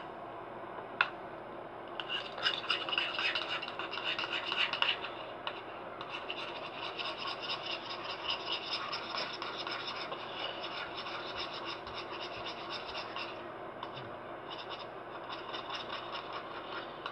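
A utensil stirring thick hand soap and salt in a bowl, scraping quickly and rhythmically in spells, with a single click about a second in.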